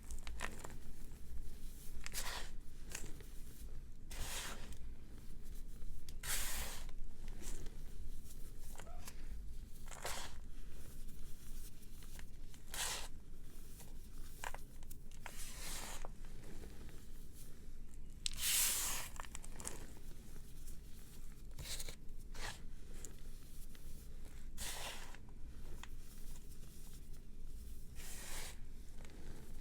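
Brittle, chalky material being crushed and crumbled by hand: irregular short crunches, one every second or two, with a longer, louder crunch about two-thirds of the way through.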